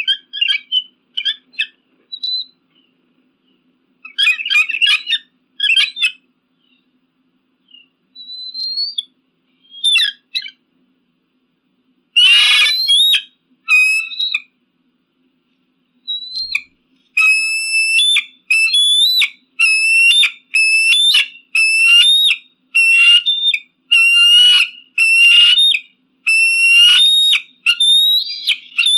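An eagle calling with high-pitched, piercing cries. The calls are scattered and chattering at first, with one harsher call about twelve seconds in. From about seventeen seconds they become a regular series of more than one call a second.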